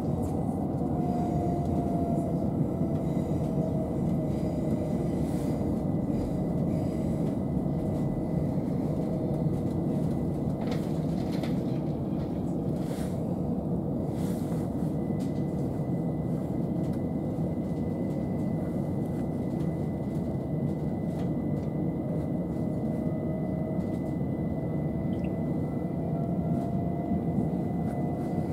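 Inside a c2c Class 357 Electrostar electric multiple unit running along the line: a steady rumble of wheels on the track with a faint traction-motor whine that falls in pitch at the start and rises again near the end, plus a few light clicks.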